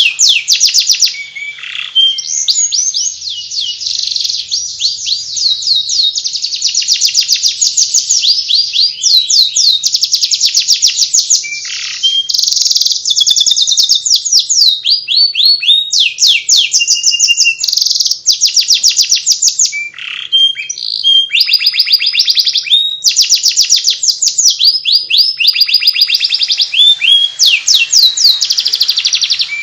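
Canary singing the fast, continuous twittering 'ngeriwik' song: long runs of rapid repeated high trill notes, broken by a few short pauses.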